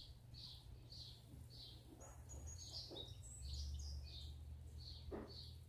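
Faint high chirps repeating evenly about twice a second, typical of a bird calling, with a livelier run of higher notes in the middle. A low steady hum runs underneath.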